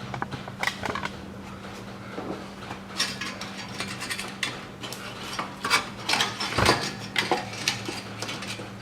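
Thin sheet-metal exhaust heat shield being worked loose from under the car: scattered metallic clanks, rattles and scrapes, with a heavier knock and thud about two-thirds of the way in. A steady low hum runs underneath.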